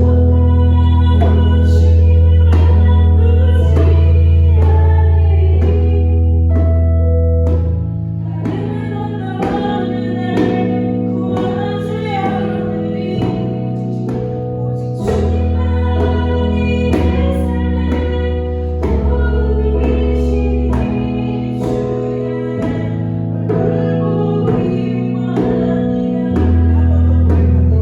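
Live worship song: keyboard accompaniment holding long low bass notes, a djembe keeping a steady hand-drum beat, and a voice singing the melody.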